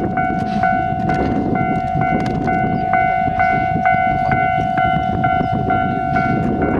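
Steam train pulling out: a steady ringing tone with regular sharp beats about twice a second, over a low rumble.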